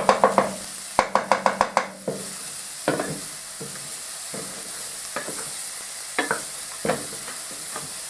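Chopped onions and garlic sizzling in olive oil in a frying pan, with a utensil scraping and knocking against the pan as they are stirred. A quick run of about half a dozen strokes comes about a second in, then single scrapes roughly every second.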